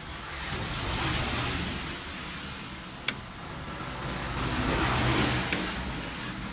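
Vehicle noise swells and fades twice, about a second in and again about five seconds in. A single sharp click falls between the two swells.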